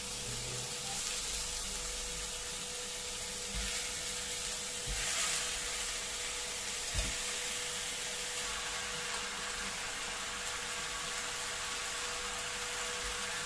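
Chopped onion, garlic, ginger and tomato sizzling in hot oil in a granite-coated pot, with a few soft knocks as pieces of raw chicken are pushed into it with a fork; the sizzle swells about five seconds in. A faint steady hum runs underneath.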